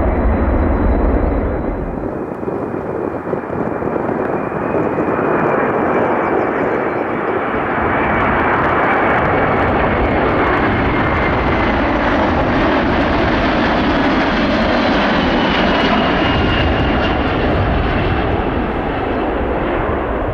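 Jet noise from a Boeing C-17A Globemaster III's four turbofan engines: a loud, steady rush with a high whine that drifts up and then down in pitch.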